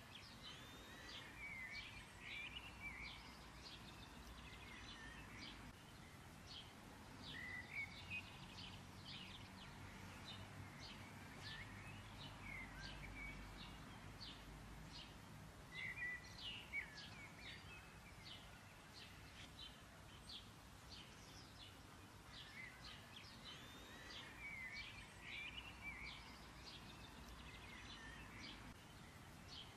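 Faint birds chirping, with many short chirps and brief warbling calls.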